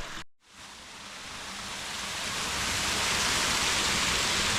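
Rushing water of a mountain burn, a steady hiss that rises in level over the first two or three seconds after a brief dropout at the very start, then holds even.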